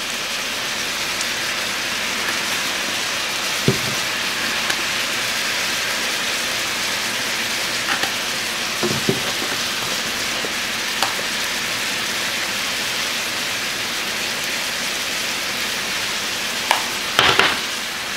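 Cubed chicken sizzling steadily in a frying pan as it cooks. A few short clicks and knocks from spice shakers being handled sound over it, the loudest cluster near the end.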